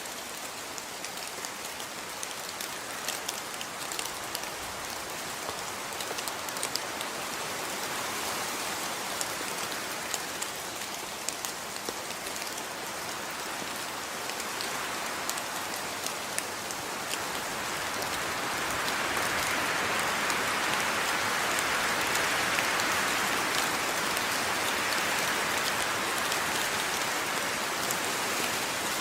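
Steady rain falling, with many small drop ticks over an even hiss; the downpour grows somewhat heavier about two-thirds of the way through.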